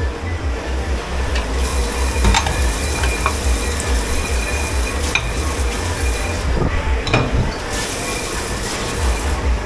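Commercial dish pit at work: a steady low machine hum under two long stretches of hiss, with a few sharp clinks of crockery and metal.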